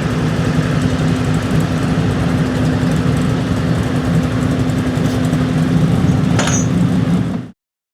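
Gas 4x4 pickup truck engine running loud and steady at an unchanging pitch, cut off abruptly near the end.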